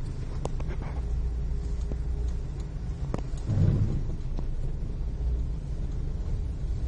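Road traffic of trucks and jeepneys: engines and tyres make a steady low rumble, with a few short clicks and a louder swell about three and a half seconds in as a vehicle passes close.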